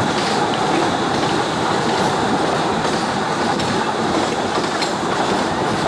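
A 15-inch narrow-gauge train running along the track: a steady, loud rumble of wheels on rail with faint clicking.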